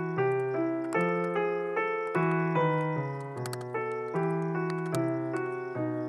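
Background piano music: a steady run of struck notes, about two to three a second, each fading before the next.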